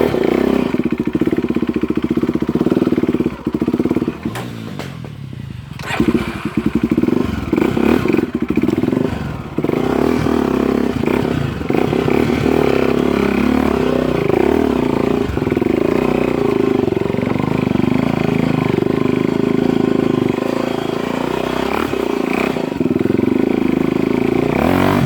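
Dirt bike engine running under way on a trail. The throttle closes about three and a half seconds in, opens again in a few quick blips around six to nine seconds, then holds steady.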